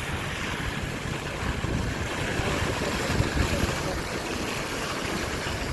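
Steady hiss of rain falling, with low buffeting from wind on the microphone.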